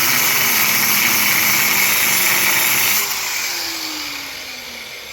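A power tool runs loud and steady at full speed, then is switched off about three seconds in and winds down with a falling whine.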